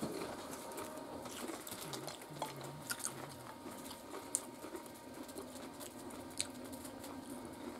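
Close-up mouth sounds of someone eating taco gratin with nacho chips: soft chewing with a few sharp clicks, the clearest about three, four and six and a half seconds in.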